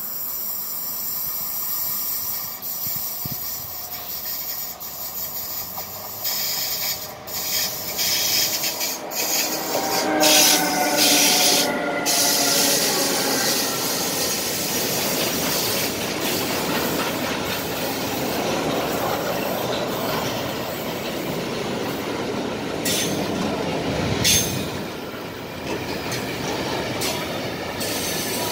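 Electric freight train with two locomotives approaching and passing slowly: a whine in several tones as the locomotives go by, then the steady rolling noise of container and tank wagons, with a few sharp clacks.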